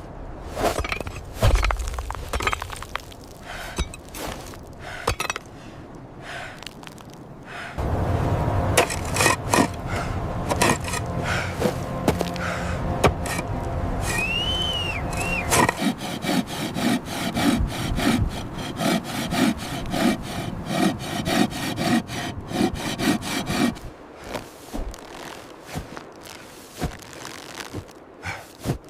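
Hand-sawing and working of timber: scattered sharp knocks at first, then a dense steady stretch, then rhythmic saw strokes at about two a second, followed by a few quieter knocks.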